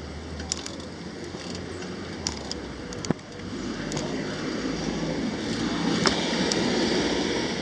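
Outdoor street noise that swells over a few seconds, broken by a few sharp clicks.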